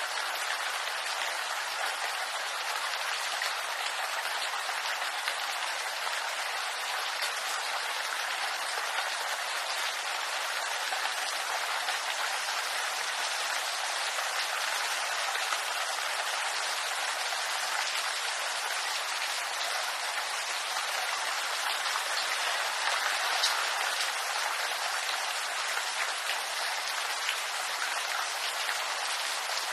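Steady rain falling on bamboo leaves: a dense, even patter with many fine drop ticks throughout.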